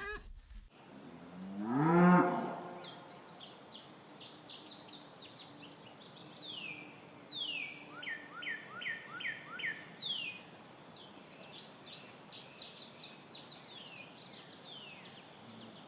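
A cow moos once, a single long call rising in pitch and loudest about two seconds in. Then a songbird sings through the rest in quick high chattering phrases with falling whistled notes.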